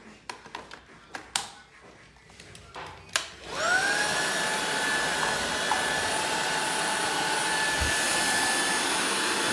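A few sharp clicks and knocks, then about three and a half seconds in the Laresar Elite 1 cordless stick vacuum's motor switches on. Its whine rises quickly to a steady pitch, and it keeps running with a high whine over rushing air.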